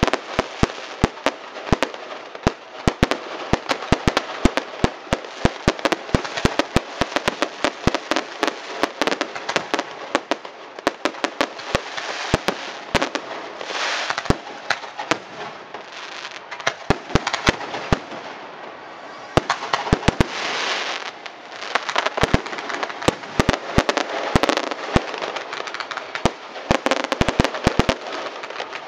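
Fireworks going off in dense, rapid crackling and popping. Brief hissing surges come about halfway through and again about two-thirds through.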